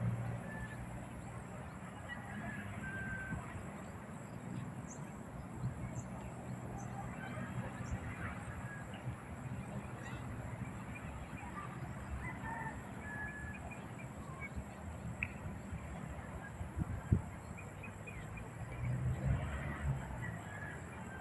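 Many birds calling: short, scattered chirps and calls over a steady low background rumble, with one sharp knock a few seconds before the end.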